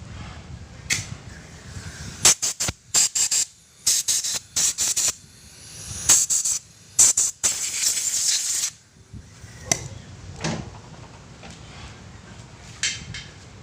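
Repeated short bursts of pressurised hissing spray, a quick run of them followed by a few more and one longer burst of about a second.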